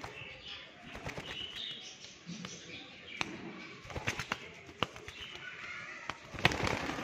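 Alexandrine parakeet moving about, with a scatter of sharp knocks and clicks, the loudest about six and a half seconds in, and soft chirps in between.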